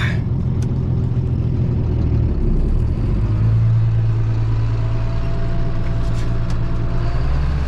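Tractor engine running steadily under way, a low drone whose pitch shifts about two to three seconds in.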